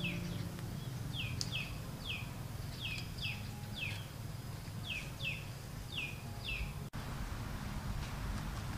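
A bird calling: short falling chirps, mostly in pairs, repeated about once a second and stopping a little under seven seconds in, over a steady low rumble of outdoor background noise.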